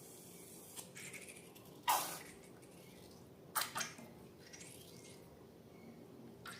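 Wet squishes and plops of slime being handled, a handful of separate short sounds. The loudest comes about two seconds in and a close pair follows about a second and a half later, over a low steady background.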